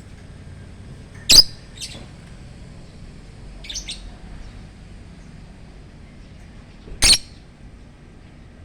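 Lovebirds giving short, sharp, high calls. There are two loud single calls, about a second in and about seven seconds in, with a softer call and a quick double call between them.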